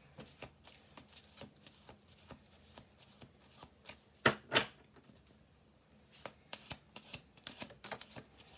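Tarot deck being shuffled by hand: a run of soft, irregular card clicks, with two louder snaps about four and a half seconds in.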